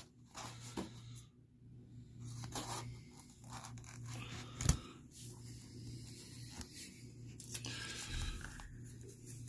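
Adhesive tape being peeled and pressed down by hand, soft rustles and scrapes with one sharp click about halfway through.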